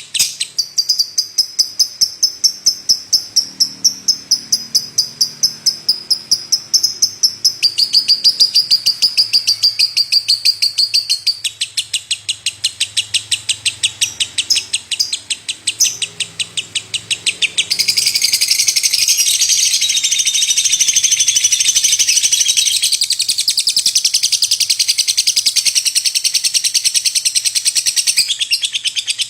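Lovebird singing: a fast run of high, repeated chirps, several a second. About two-thirds of the way in, the chirps run together into a long, dense, unbroken chatter.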